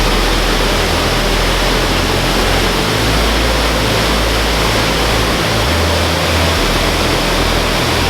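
Bash Bish Falls, a large waterfall, pouring: a loud, steady rush of falling water.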